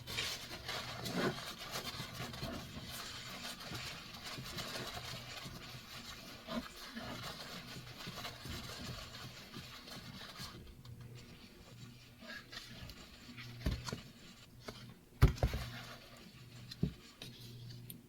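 Wiping and rubbing over a glass cutting board, cleaning off glass cleaner and leftover glue from the rubber feet, for about ten seconds. Then a few sharp knocks, the loudest about two-thirds of the way through, over a low steady hum.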